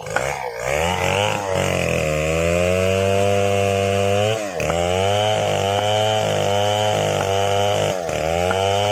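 Chainsaw engine running at high revs under cutting load. It climbs to full speed over the first two seconds, and its pitch drops sharply and climbs back twice, about halfway through and near the end.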